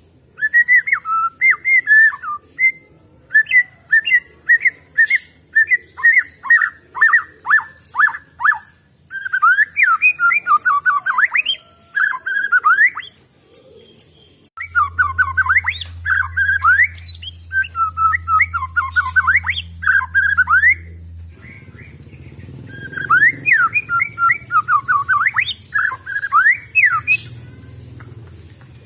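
White-rumped shama (murai batu) singing: loud phrases of quick whistled notes sweeping up and down, repeated in bursts with short pauses between them. A faint low hum sits underneath from about halfway through.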